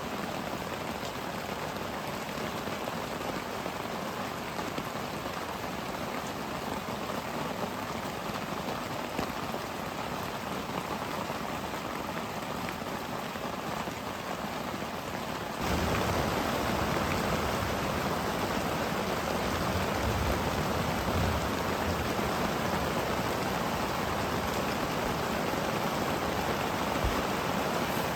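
Steady, even rushing noise of water, becoming suddenly louder a little over halfway through.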